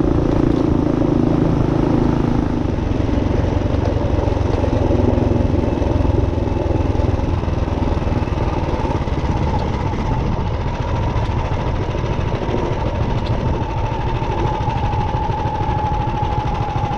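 Minibike's built Tillotson 212 single-cylinder four-stroke engine running steadily, with a higher steady tone coming up clearer in the second half.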